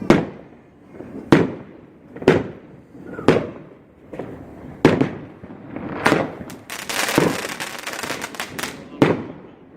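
Fireworks bursting overhead with sharp bangs about once a second, then a dense crackling spell of about two seconds just past the middle, followed by another bang.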